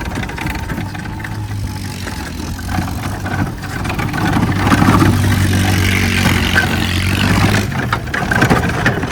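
Car engine running with a steady low hum, growing louder about four seconds in as it picks up speed, then easing off near the end.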